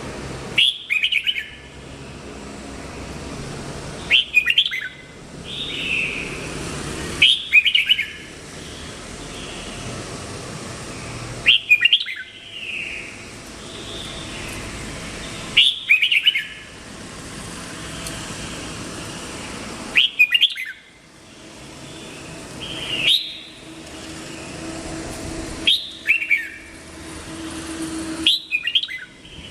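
Red-whiskered bulbul singing short whistled phrases, one every three to four seconds, over a steady background hiss.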